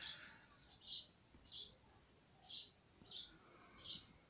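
A small bird chirping over and over: short, high chirps, each dipping slightly in pitch, about one every two-thirds of a second, around seven in all.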